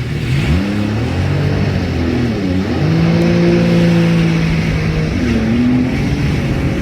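Jet ski engine running at speed, its pitch dipping and climbing again as the throttle is eased and reopened, held steady for a couple of seconds midway, with a steady rush of wind and water.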